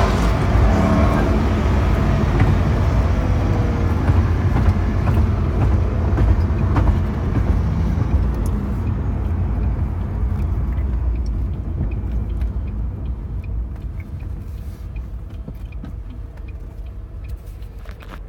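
Ford GT's supercharged 5.4-litre V8 and road noise heard from inside the cabin, a deep rumble that is loud at first and fades gradually over the second half.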